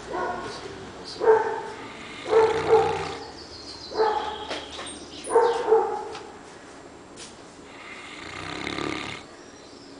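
Newfoundland dog snoring in deep sleep: a run of short, pitched snores about every second or so, some in quick pairs, then a longer, softer breath near the end.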